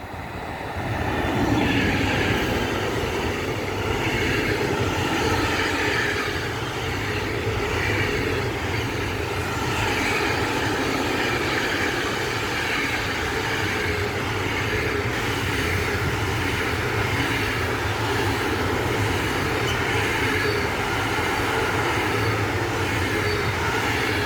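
A Metrans class 386 (Siemens Vectron) electric locomotive hauling a container train past, with the steady rumble and rattle of wagon wheels on the rails. The sound swells about a second in and then stays level as the train rolls by.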